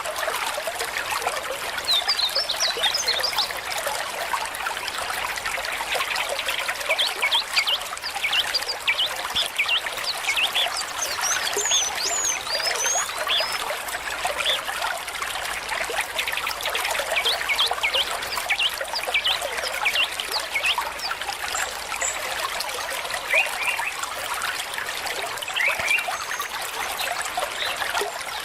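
Small stream trickling and gurgling steadily, full of quick little bubbling splashes.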